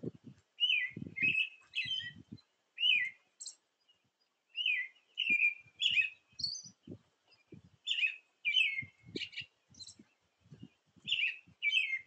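Birds singing: repeated short, down-slurred whistled phrases, often one every half second to a second, with a brief lull about four seconds in and a few higher notes mixed in. Faint irregular low thumps sound underneath.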